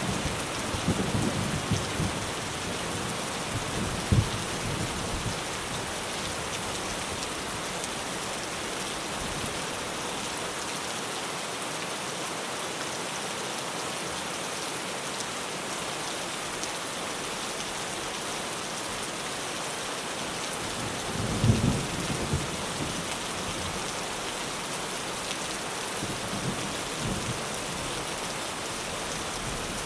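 Rain falling steadily on a tin roof, an even hiss, with low rumbles of thunder now and then, the strongest about two-thirds of the way in.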